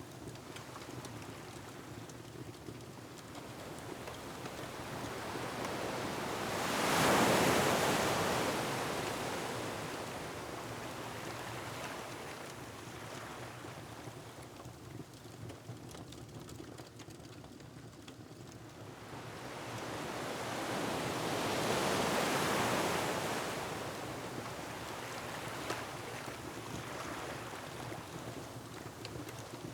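Ocean waves breaking on a rocky shore, one large wave surging in about seven seconds in and another around twenty-two seconds, over steady wind-like noise. Faint crackles of a wood fire sound underneath.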